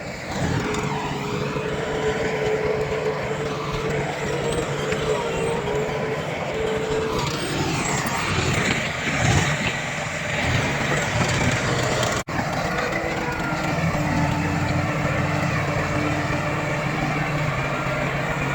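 Diesel engines of a bulldozer and dump trucks running steadily at work, with a momentary dropout about twelve seconds in.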